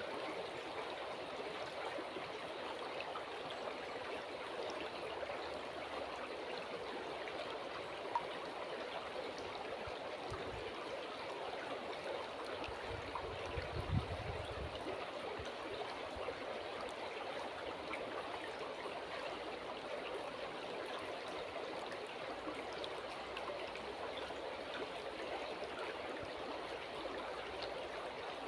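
River water flowing in a steady, even rush, with a single sharp click and a brief low thump about halfway through.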